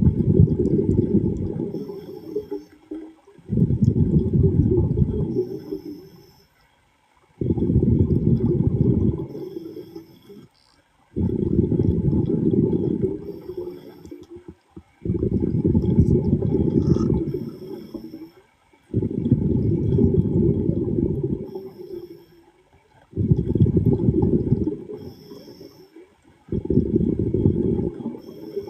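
Underwater breathing of a diver: each exhalation through the regulator sends out a rumbling burst of bubbles, about every four seconds, eight breaths in all, with brief quiet gaps between for the inhalations.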